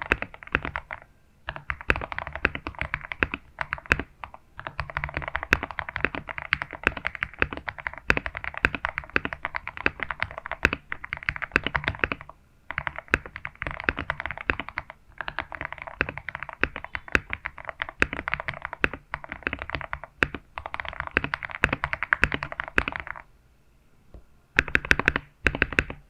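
Typing on a GMK67 mechanical keyboard with lubed Gateron Pro Milky Yellow linear switches, taped and with stock foam and lubed stabilizers. The keystrokes come in fast runs broken by short pauses, with a longer pause near the end followed by a few louder, separate strokes.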